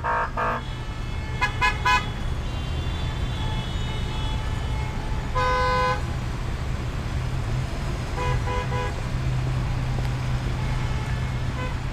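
Car horns honking over steady road traffic: several short honks in the first two seconds, one longer honk about halfway, and three quick honks near the end.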